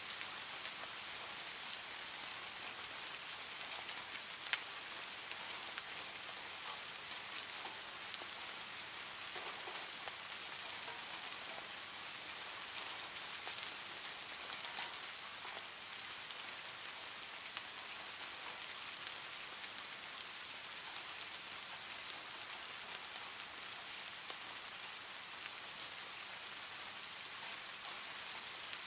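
Steady heavy rain falling on a tin roof, an even hiss dotted with the ticks of single drops, one of them louder about four and a half seconds in.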